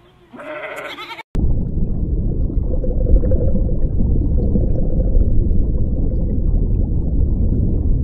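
A sheep bleats once, about a second long, and the sound cuts off abruptly. A loud, steady low rumbling noise with a faint hum follows and lasts the rest of the time.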